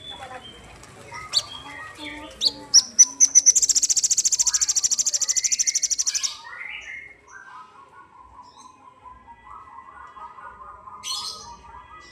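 A sogon songbird singing on a lure recording: a few sharp high chirps, then a loud, rapid high trill for about three seconds, followed by softer twittering and warbling.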